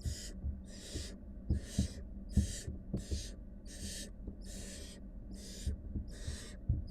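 Barn owl nestlings giving their rasping begging hiss over and over, about one hiss every three-quarters of a second, with scattered soft thumps of movement in the nest box over a steady low hum.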